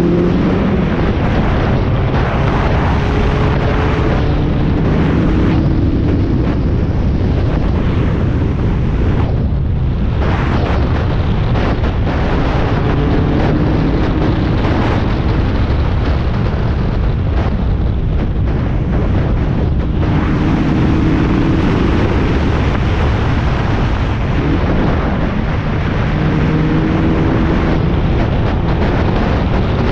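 Onboard sound of a Spec Miata race car at speed: its four-cylinder engine running hard under a heavy, steady rumble of wind buffeting on the microphone, the engine note rising and falling at intervals as the car is driven around the track.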